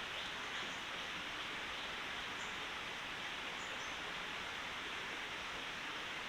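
Steady rushing of a flowing forest stream, even and unbroken, with a few faint high bird chirps over it.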